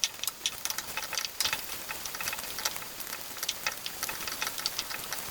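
Onions frying in hot oil in a frying pan, sizzling steadily with many small crackles and pops.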